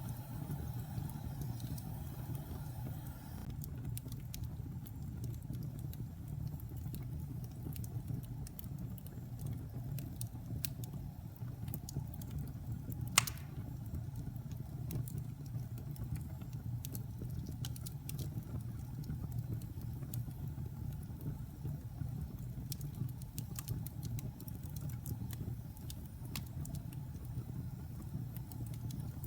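Wood fire burning in a fireplace: scattered crackles over a steady low rumble, with one sharp pop about halfway through.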